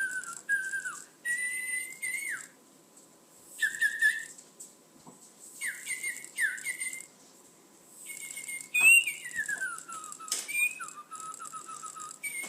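Pet parrot whistling: short whistled notes with quick upward and downward slides, broken by pauses, then one long falling whistle about nine seconds in and a rapid fluttering whistle held at one pitch near the end. A few sharp clicks come in among the notes.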